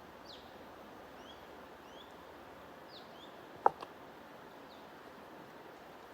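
Small birds chirping in short, faint calls over a steady rushing noise bed. About three and a half seconds in there is a sharp click, with a fainter second click just after it.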